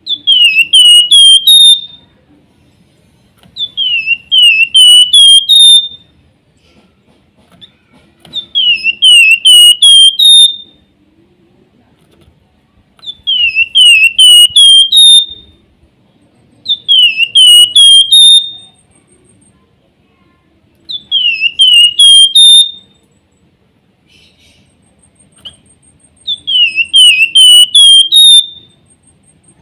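Javan fulvetta (flamboyan, wergan jawa) singing its whistled song: a phrase of four or five quick, high whistled notes, repeated about every four seconds, seven times.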